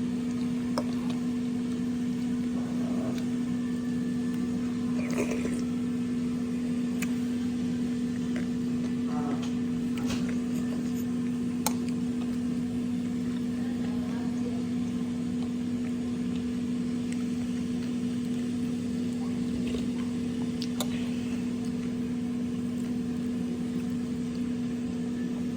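A steady motor hum on one low pitch throughout, with a few light clicks and clinks over it.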